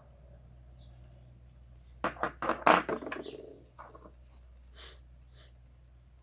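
A quick run of knocks and clatter about two seconds in, then a few fainter clicks, over a low steady hum.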